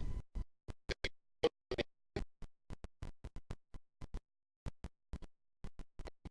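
Choppy, broken-up audio from a faulty recording: short clicks and crackles, a few a second and irregularly spaced, with dead silence between them and a longer silent gap a little past the middle.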